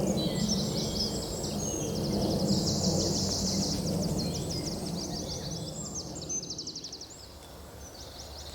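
Woodland birdsong, several birds singing at once: fast series of high repeated notes and trills that thin out about seven seconds in. Under them is a low steady rumble that fades toward the end.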